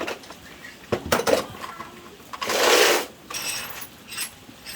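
Small metal tools and parts clinking and clicking against each other during work on a loudspeaker. About two and a half seconds in there is a short, loud rushing noise lasting about half a second.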